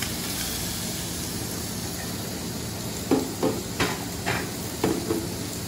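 Chorizo and seafood sizzling steadily in a paella pan on a gas burner. From about three seconds in come about six short knocks, dishes being handled on a steel counter.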